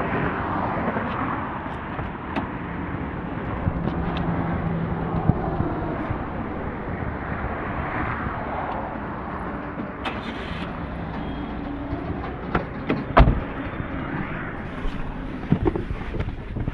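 A car running and being driven, with steady engine and road noise and a few scattered clicks and knocks, the loudest about 13 seconds in.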